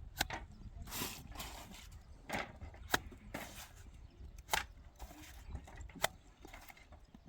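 Irregular sharp knocks, about seven, some followed by a short scrape, over a steady low rumble.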